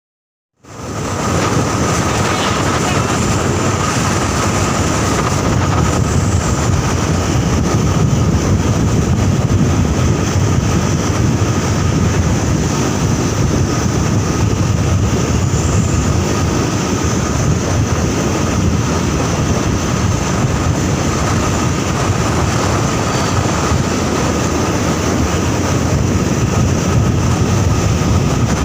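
Steady heavy-vehicle engine and road noise with wind on the microphone, starting suddenly about half a second in and holding at an even level.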